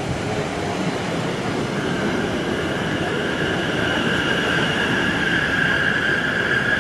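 London Overground electric multiple unit running into the platform close by, its rumble growing as the carriages pass, with a high steady squeal setting in about two seconds in and strengthening as it slows to stop.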